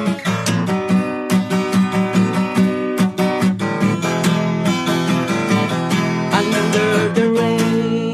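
Acoustic guitar strummed in a quick, even rhythm, ending about seven seconds in on a final chord left ringing.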